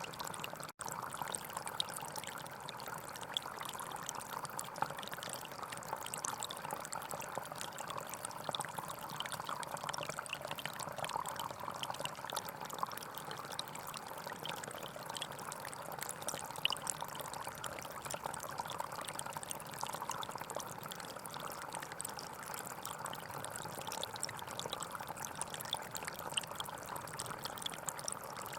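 Gentle forest stream flowing steadily, an even rush of running water with small trickling splashes. The audio cuts out for a split second near the start.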